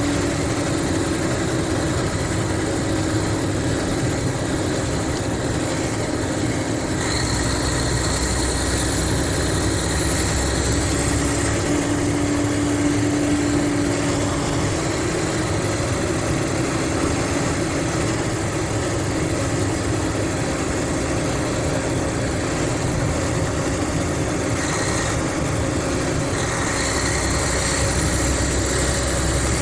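Mercedes-Benz O500RSD coach's diesel engine running steadily with a constant drone. A deeper rumble and a hiss swell for a few seconds about a quarter of the way in and again near the end.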